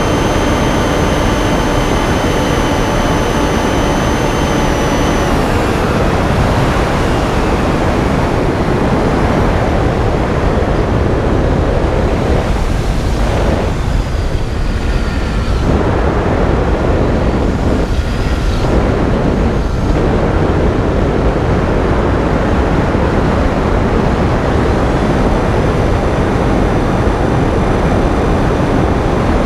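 Finwing Penguin FPV plane's electric motor and propeller whining steadily under heavy wind rush; the whine falls in pitch and fades about five seconds in, leaving mostly wind noise, with the motor tone briefly coming back in the middle and faintly near the end.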